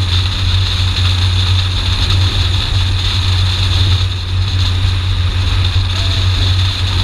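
BMW E30 318iS's 1.8-litre four-cylinder engine running at a steady, even engine speed while the car drives, with a steady hiss over it.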